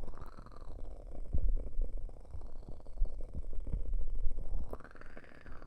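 Ear cupping on a 3Dio binaural microphone's ears: a muffled, uneven low rumble with a hollow resonance that rises and falls in pitch as the cup presses and lifts.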